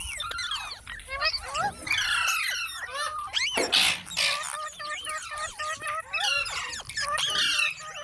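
Pet green parrot chattering: a fast, busy run of whistled chirps and sliding squeaks, with one harsh, raspy screech about four seconds in.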